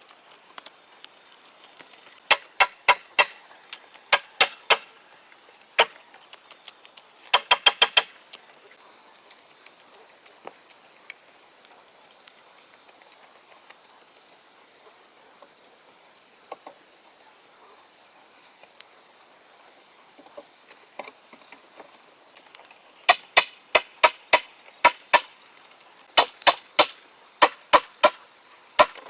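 Repeated sharp strikes on wood, in bursts of several quick knocks with pauses between; each knock rings briefly. Quiet in the middle of the stretch, with the knocking starting again near the end.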